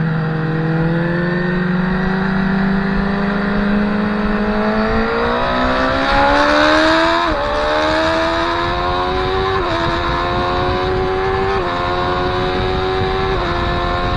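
Motorcycle engine, heard onboard, accelerating out of a corner and revving up through the gears. Its pitch climbs slowly, then faster, then drops sharply four times as it shifts up, about seven, nine and a half, eleven and a half and thirteen and a half seconds in, climbing again after each shift.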